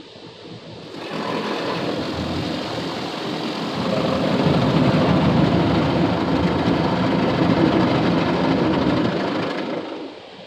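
Automatic car wash equipment spraying and working over a truck, heard from inside the cab: a loud rushing noise that starts about a second in, grows louder around four seconds, and dies down near the end.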